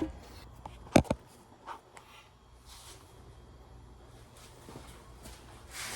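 Sharp metallic clicks and a double knock about a second in, then quiet handling noise, as the clutch linkage on a Ford 2N tractor is worked loose and disconnected.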